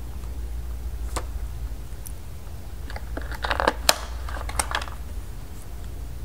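Plastic toy pieces being handled: a couple of single clicks, then a short run of clicks and rattles in the middle.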